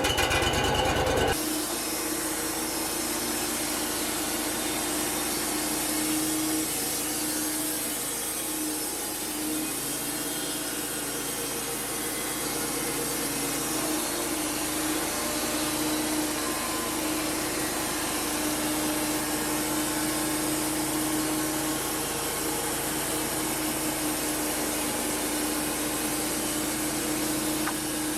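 Wood-Mizer LT35 portable band sawmill running a cut through cedar: the engine pulls steadily under load while the band blade hisses through the wood, louder for the first second or so and then even.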